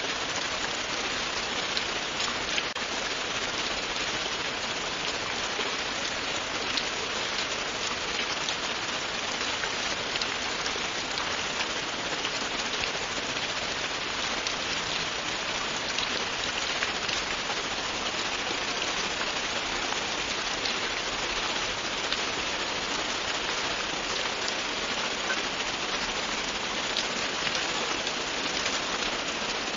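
Steady, continuous rain: an even hiss of rainfall with scattered sharp drop ticks through it.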